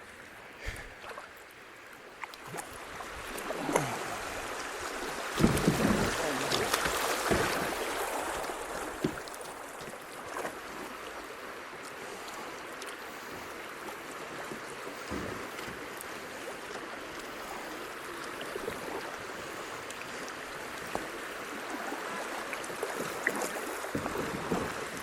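Shallow creek water rushing over a rocky shoal, swelling a few seconds in and then running steadily, with a few sharp knocks and splashes from the kayaks and paddles among the rocks.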